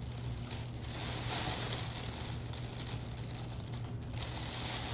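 Volcano vaporizer's air pump running with a steady low hum and airy hiss, with crinkling of the plastic balloon bag.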